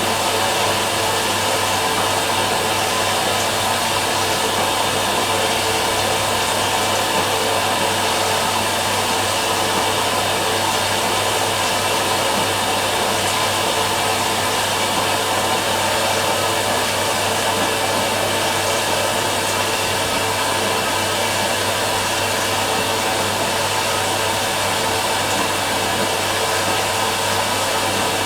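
Steady, even rushing machine noise with a low hum underneath, like a motor-driven blower running without a break.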